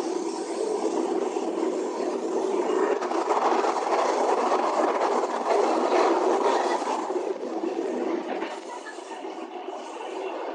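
Passenger train running along the track, a steady rushing rumble of wheels and carriage heard from inside the car. It swells louder in the middle and eases off a little near the end.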